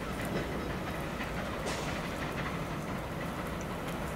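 Coaches of a steam-hauled passenger train running away over the rails, a steady rolling noise with a few faint wheel clicks.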